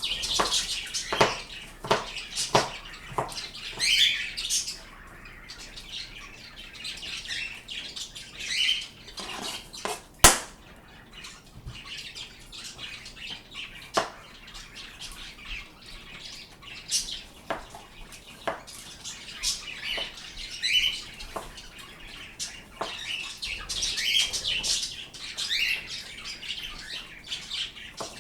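Pet birds chirping and squawking in short high calls, on and off, with sharp knocks scattered among them, the loudest about ten seconds in.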